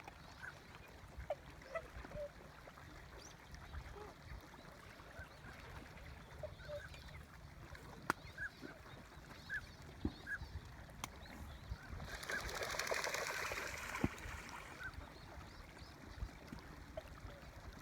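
Swans calling on the lake: many short honking calls scattered through, some overlapping. About twelve seconds in a rushing noise rises for roughly three seconds and then fades.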